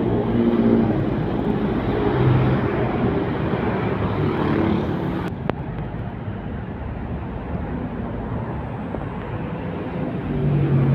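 Heavy trucks passing on a road: a diesel engine is loud at the start, fades to a steady rush of tyre and traffic noise, then another vehicle's engine grows louder near the end. There is one sharp click about five seconds in.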